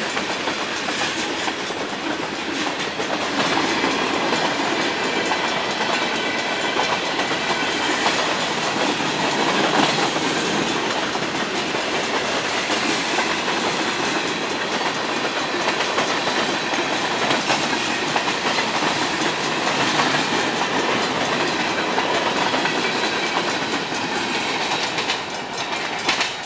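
Train's railroad cars rolling steadily past, the wheels clicking over the rail joints, easing off slightly near the end.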